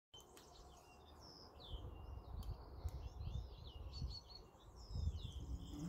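Birds chirping, a string of short calls that glide down in pitch, over an irregular low rumble.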